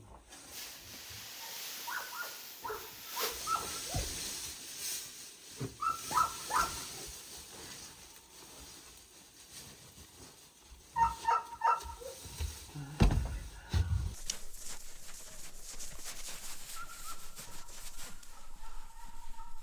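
Farmyard animal calls: short, pitched cries in three quick groups, with a loud low thump or rumble about thirteen seconds in.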